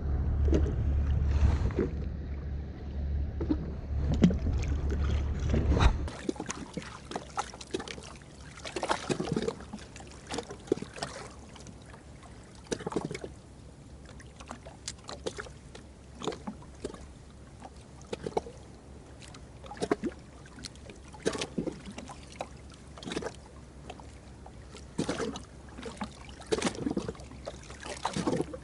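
A steady low rumble for about the first six seconds, then, after a sudden change, small waves lapping and slapping irregularly against the hull of a drifting jet ski.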